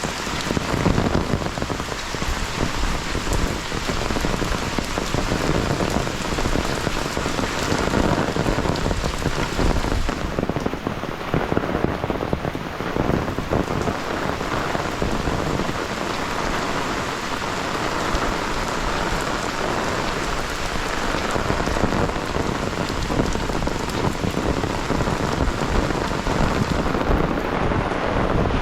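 Heavy rain falling steadily, a dense patter of drops hitting the ground and nearby surfaces.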